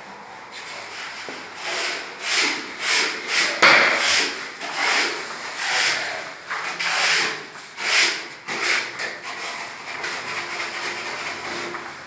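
Repeated rubbing strokes on a hard surface, about two a second, in a steady back-and-forth rhythm that eases off near the end.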